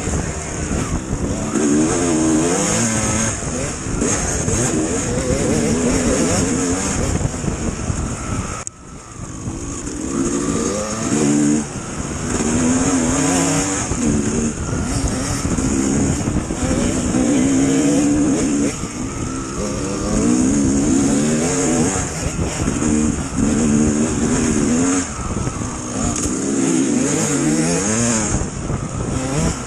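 Dirt bike engine revving up and down while it is ridden, its pitch rising and falling again and again with the throttle. The sound drops off sharply for a moment about nine seconds in.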